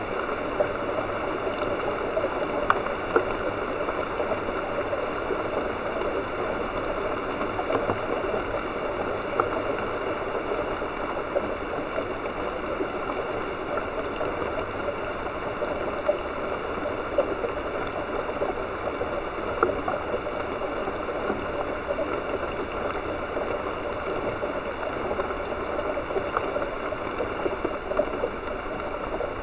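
Steady rain falling on rainforest leaves and the forest floor, with occasional louder drops striking close by.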